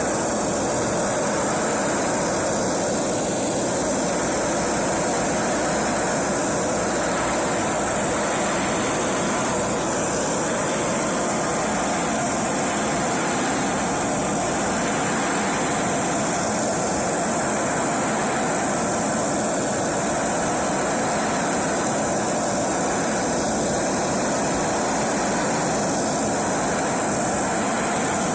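A power tool running continuously at an even level, a steady rushing noise with a strong high hiss.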